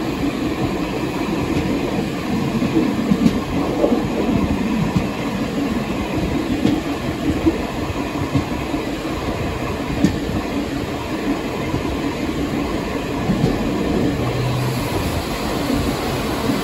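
Taiwan Railway passenger train running along the track, heard from the rear of its last car: a steady rumble of wheels on rail, with a few sharp clicks.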